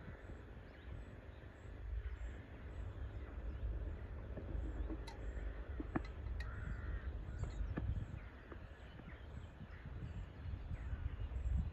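A bird calling twice over a steady low rumble, with a few sharp clicks between the calls.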